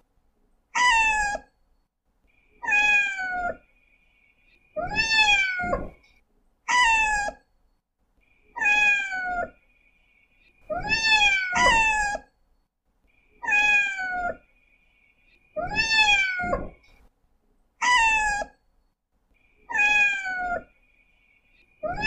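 Domestic cat meowing over and over, about one meow every two seconds, each call dropping in pitch at its end. A faint steady high tone sounds between some of the meows.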